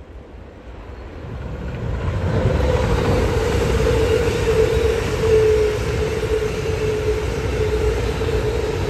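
Train approaching and running past, its sound building about two seconds in to a loud, steady rumble with a sustained humming tone.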